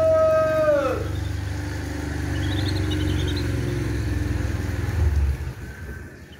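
Low rumble of a passing motor vehicle, loudest about five seconds in, then fading. A long held tone slides down and stops about a second in, and a quick run of faint high chirps comes near the middle.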